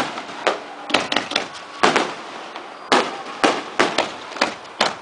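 Firecrackers going off in an uneven series of sharp bangs, about ten in five seconds.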